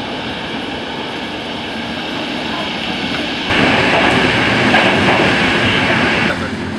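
Running noise of a passenger train heard from inside the carriage: a steady rush and rumble of wheels on the track. It grows suddenly louder about three and a half seconds in and drops back shortly before the end.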